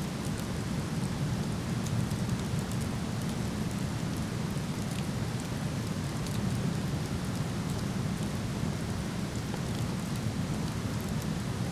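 Steady rush of a waterfall, with light crackles and pops from a wood campfire scattered through it.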